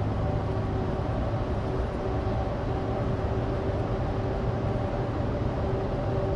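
In-cabin sound of a Suzuki Alto Turbo RS cruising at a steady pace: its small turbocharged three-cylinder engine hums at an even pitch under the rumble of studless winter tyres on dry road.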